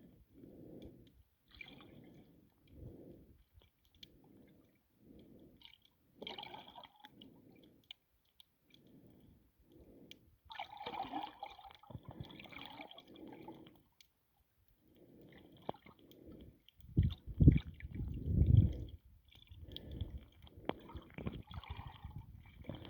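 Water sloshing and gurgling around a camera held underwater while snorkeling, in muffled swells about once a second. Louder, heavier surges come about two-thirds of the way through.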